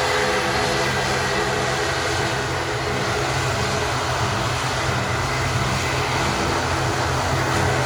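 ATR 72-500's twin turboprop engines running steadily: a constant drone with steady propeller hum tones.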